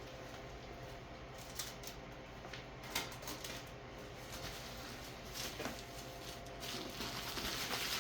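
Handling noises while unpacking an exhaust from its box: scattered light clicks and taps, with louder rustling of packaging in the last second or so.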